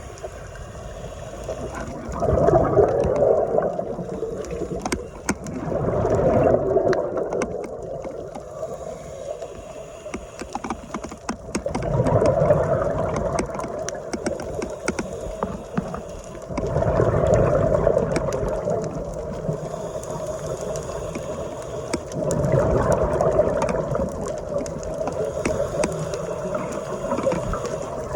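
Scuba diver's exhaled bubbles from a regulator, heard underwater through a camera housing: a bubbling rush about every five seconds, five times, with faint clicks in between.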